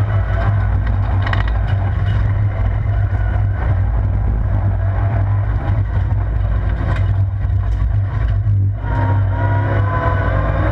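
Vauxhall Corsa rallycross car's engine running hard under race load, heard from inside the stripped cabin as a loud, steady drone with road and gravel noise. Its note briefly drops about eight and a half seconds in, then pulls again.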